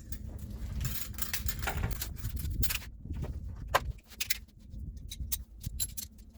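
Scattered light metallic clicks and knocks at uneven intervals, over a low rumble: hand tools and metal parts being handled during work on a car's fuel-line fittings.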